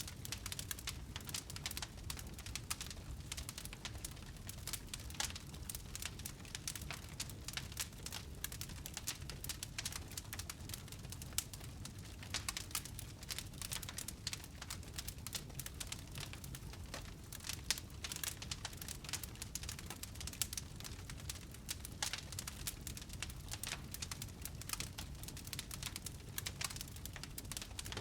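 Wood fire burning in a fireplace, crackling with dense, irregular snaps and pops over a steady low background.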